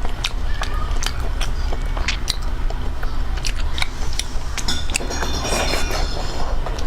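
A person eating close to the microphone: chewing and biting, with scattered sharp clicks and smacks, over a steady low hum.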